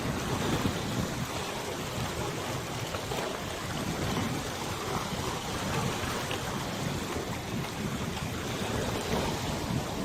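Wind rushing and buffeting the microphone over a wide river, with river water washing and lapping underneath; a steady, even noise with low gusts and no engine tone.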